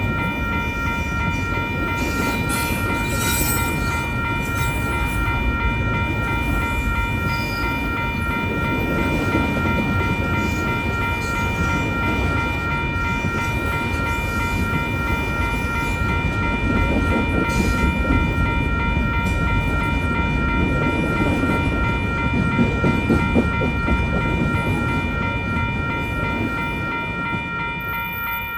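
Union Pacific intermodal freight train rolling through the grade crossing, a steady rumble of passing cars. Over it, the activated crossing's warning bell keeps up a continuous ringing tone.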